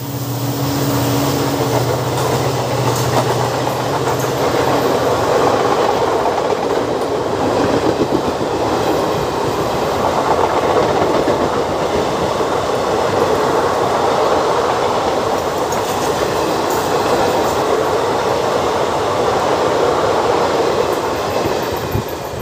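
Express train's passenger coaches rushing past at speed: a steady, loud rush of wheels running over the rails, which fades near the end as the last coach goes by. The diesel locomotive's low drone dies away in the first few seconds.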